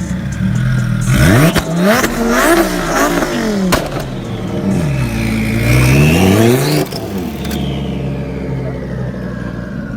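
Lamborghini Huracan's V10 engine being revved: a few sharp blips about a second in, then a longer rev whose pitch sinks and climbs again before it drops suddenly back to a steady idle near the seven-second mark. There is a sharp crack partway through the revving.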